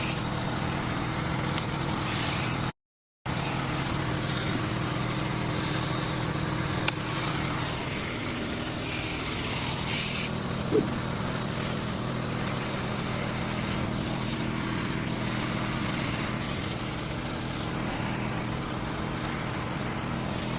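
Steady engine drone with several short hisses of air in the first half, as at a mobile tyre job where the tyre has just been inflated.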